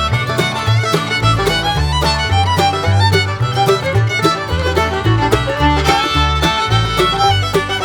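Violin playing a fast melody over a backing track with a bass line and a steady drum beat.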